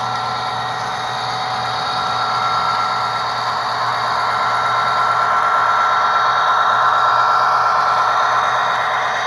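Model Norfolk Southern SD70ACE diesel locomotive running on the layout, its Tsunami2 sound decoder playing diesel engine sound through the model's small speaker over the whir of its motor and wheels. The sound is steady with a thin held whine, growing louder about halfway through and easing near the end.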